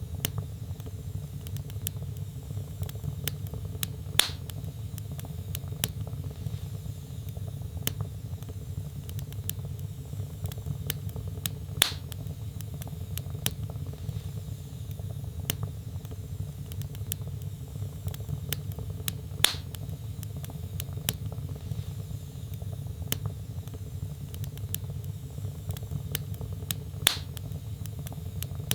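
Log fire in a fireplace crackling: a steady low rumble of flames under frequent small crackles, with four louder pops evenly spaced about seven or eight seconds apart.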